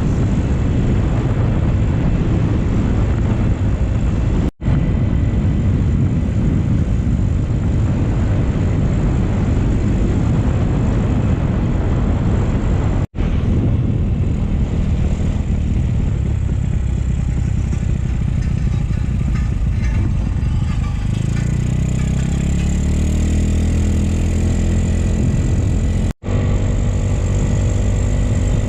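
Motorcycle riding, with heavy wind rush on the microphone over the engine. Past the two-thirds mark the engine note comes through clearly and rises.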